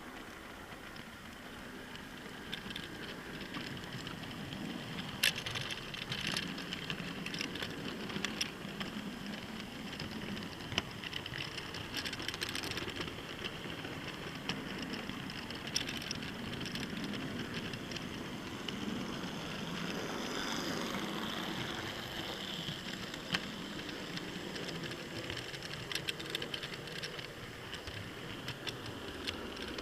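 Model train running along the track: a steady rolling rumble with scattered sharp clicks.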